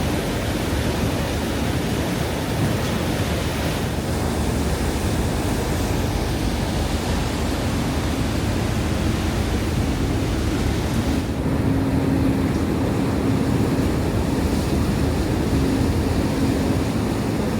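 Steady rush of wind and sea water with the low hum of a high-speed catamaran ferry's engines. The hum grows stronger about eleven seconds in.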